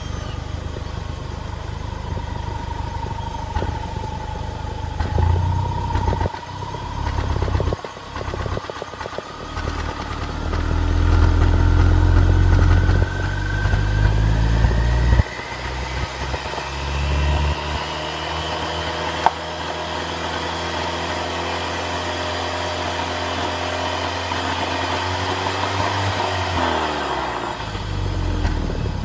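Engine running with a misfire caused by a bad spark plug. The low rumble is uneven for the first half, then settles into a steadier note. A faint whine rises in pitch through the first half, and the engine note drops near the end.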